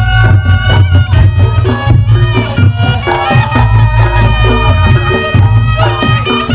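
Reog Ponorogo gamelan music: a slompret, the shrill double-reed trumpet, plays a stepping melody over fast, dense drum strokes and a heavy, steady low bass.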